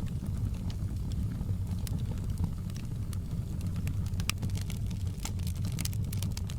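Wood fire crackling in a fireplace: irregular sharp pops and snaps over a steady low rumble, the pops coming thicker in the second half.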